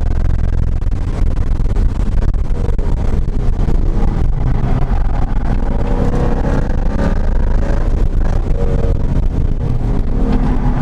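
2017 Ford Mustang GT's 5.0-litre V8 running hard on a race track, heard from inside the cabin over a heavy drone of road and tyre noise. Its pitch rises and falls with the revs.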